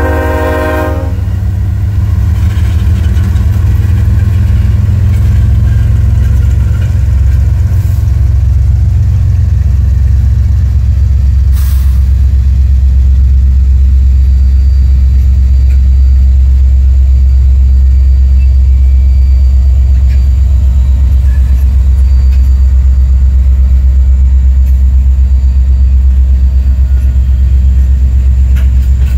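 The horn of a Kansas City Southern diesel freight locomotive cuts off about a second in, then the loud, steady, deep rumble of several diesel locomotives passing close by, with a single clank near the middle.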